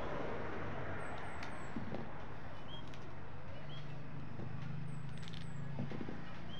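A small bird chirping, two runs of three quick high chirps, about a second in and again about five seconds in, over a steady low hum and background noise.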